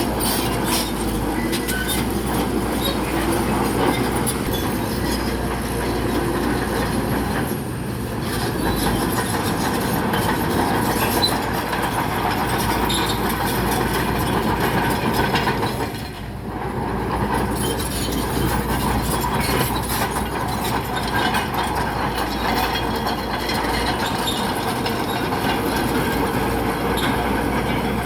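Crawler bulldozer at work: its engine runs steadily under a continuous clatter from its steel tracks, with a brief dip about halfway through.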